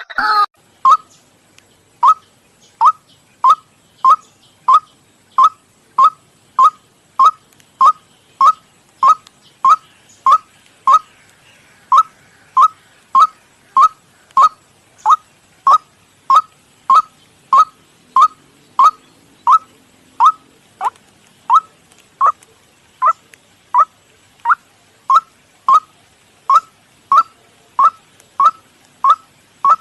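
Recorded white-breasted waterhen calls: a monotonous series of short 'kook' notes, about three every two seconds, each note the same pitch.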